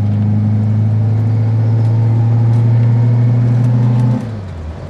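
Reliant Kitten's all-alloy 848cc four-cylinder engine, heard from inside the cabin, pulling steadily under load. About four seconds in, the note drops and quietens as the throttle is lifted for a gear change.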